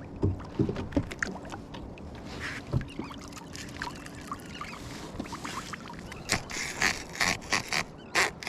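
Fishing reel letting out line as a baited rig with an 8-ounce cannonball sinker is dropped toward the bottom from a kayak, with scattered small clicks and knocks of gear against the hull. A faint steady hum runs through the first few seconds, and a quick run of sharper taps comes near the end.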